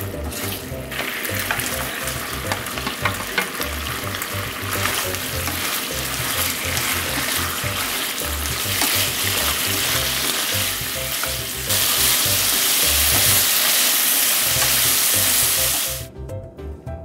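Sauce, then eggplant, tofu and shishito peppers, sizzling and crackling in a hot frying pan as they are stir-fried, with the scrape and tap of a wooden spatula. The sizzle grows louder about twelve seconds in and stops abruptly near the end.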